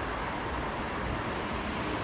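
Steady rushing noise of a jet airliner's engines, growing louder just after this as the aircraft comes in to land.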